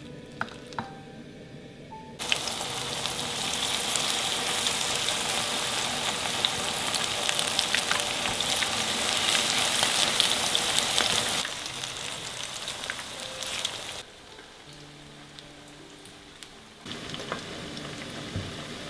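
Corn fritter batter (bakwan jagung) sizzling as it deep-fries in hot oil and is stirred with a spatula. The sizzle starts suddenly about two seconds in, weakens around eleven seconds and stops abruptly about fourteen seconds in.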